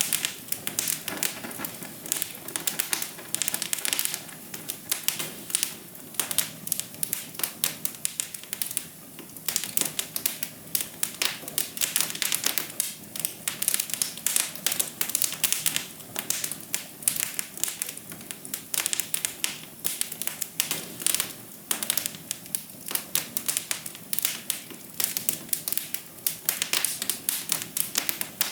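Wood fire crackling in a fireplace: dense clusters of sharp pops and snaps over a soft steady hiss of flames.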